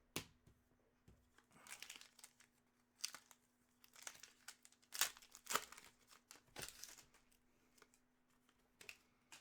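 Faint, irregular crinkling and rustling of hockey card pack wrappers and cards being handled, with a few small clicks.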